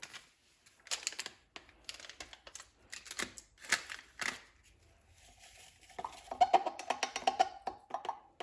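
Scattered clicks, taps and rustles of objects being handled, then from about six seconds a quick run of light taps with a ringing tone.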